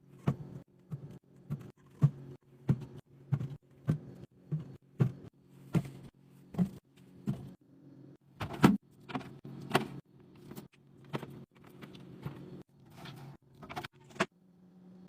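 Items being set down one after another while a fridge is restocked: short, sharp knocks and clinks about one to two a second, over a faint steady low hum.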